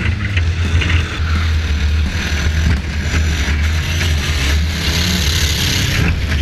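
Four-cylinder engine of a compact demolition derby car running under throttle, heard from a camera mounted on its hood: a strong steady low rumble under a noisy haze, with a few short knocks.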